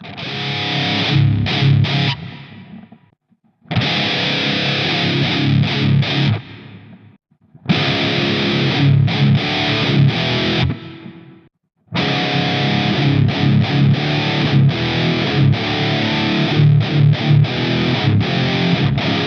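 Heavily distorted electric guitar, bridge pickup, tuned down a half step to drop D, played through a Mooer GE200 amp modeller with its EL34 power-tube emulation switched on. It plays chugging riffs in four phrases with short breaks between them, the last phrase the longest.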